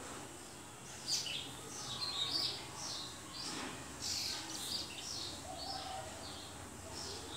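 Small birds chirping in the background: a run of short, high calls, a few a second, starting about a second in.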